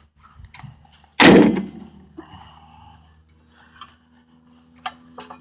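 Kubota tractor's metal hood shut with one loud clang about a second in, followed by a few faint knocks and clicks.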